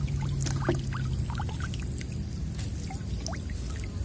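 Running floodwater trickling and pouring, with scattered small splashes and drips. A low steady hum fades out about a second in.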